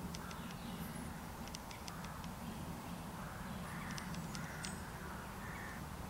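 Birds calling several times in woodland, with clusters of short high ticks, over a steady low background rumble.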